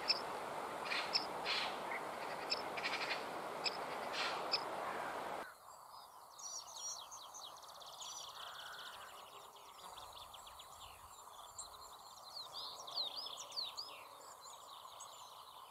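Faint birds chirping over a background hiss. A louder hissy ambience with scattered clicks cuts off abruptly about five seconds in, leaving quieter, busier chirping.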